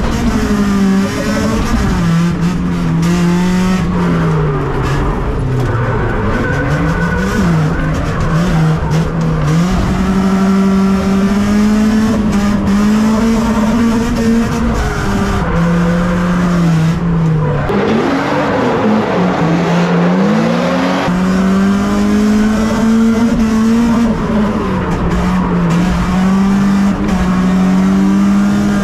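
BMW drift car's engine held high in the revs, its pitch rising and falling again and again as the throttle is worked through the slides, with a deeper drop in revs and pick-up about eighteen seconds in. Tyre squeal runs under the engine.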